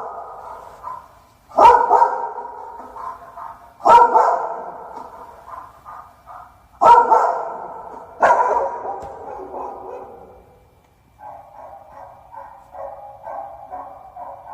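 Dog barking: four loud single barks a couple of seconds apart, each with a long echoing tail. After about eleven seconds a quieter, choppy sound follows.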